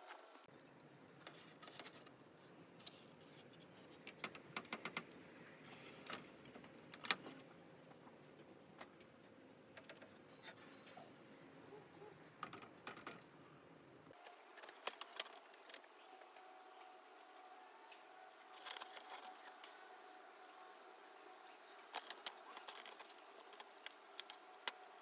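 Quiet room with scattered light clicks and taps of small objects being handled, over a faint background hum.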